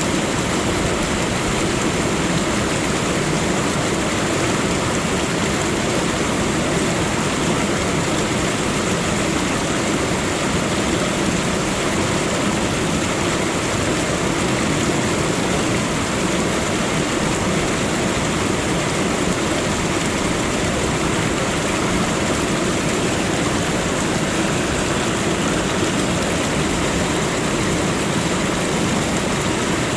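Waterfall: falling water rushing in a steady, unbroken roar of noise that does not change.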